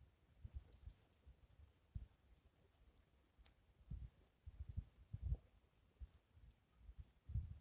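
Faint crackling of a small wood fire, a few scattered sharp pops, under irregular low rumbles of wind buffeting the microphone; the low rumbles are the loudest sound, strongest in the middle and near the end.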